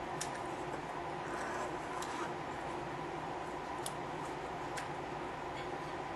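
Inside the passenger cabin of a JR West 221 series electric train car: a steady electrical and mechanical hum with a few faint clicks.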